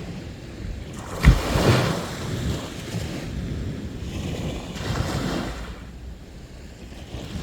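Sea waves breaking on the shore: a sharp crash about a second in, the loudest moment, then the wash of water, and a second smaller wave surging about five seconds in.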